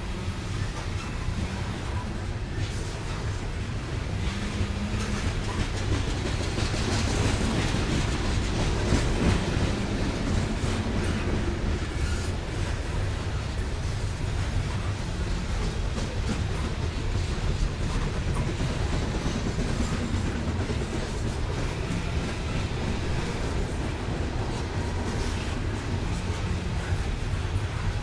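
Loaded coal hopper cars of a freight train rolling past: a steady, deep rumble with wheel clicks over the rail joints.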